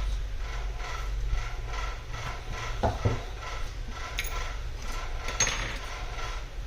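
Small hand tools scraping and rubbing against a laptop's casing during disassembly, with a few sharp clicks about three, four and five and a half seconds in, over a steady low hum.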